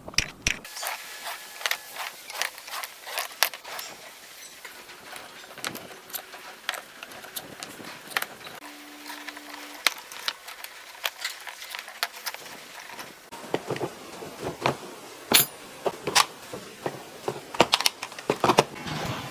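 Irregular clicks and light knocks of small hard parts being handled and fitted by hand, with a short low hum about nine seconds in.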